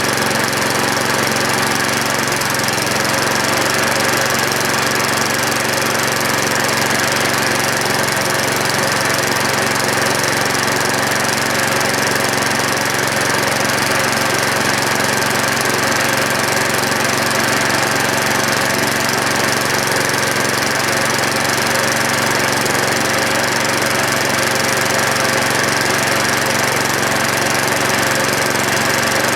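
1990s 7 hp Tecumseh single-cylinder four-stroke engine running steadily on the bench, fed from a gas line with no tank and its carburetor not yet adjusted.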